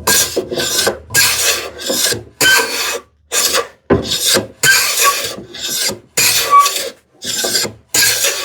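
Hand plane taking a quick series of short strokes across the end grain of a hardwood panel edge, each a dry rasping hiss with a brief gap between, about a dozen in all. The sharp blade is taking fine end-grain shavings, trimming the edge down to a knife line.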